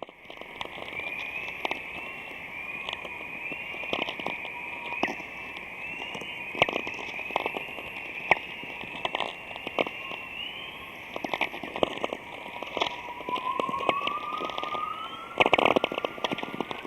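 Sound attributed to the aurora borealis: irregular crackling pops over a continuous warbling band of repeated rising chirps. About three-quarters of the way in, a separate whistle slowly rises, levels off and falls again. This is the kind of crackle-and-chorus heard when natural radio emissions are played as audio.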